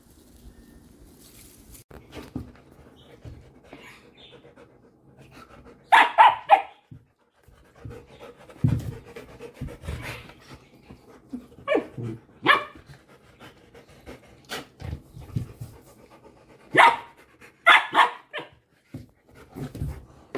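Standard poodle barking in short groups of loud barks, two or three at a time, about a quarter of the way in, again around the middle, and near the end.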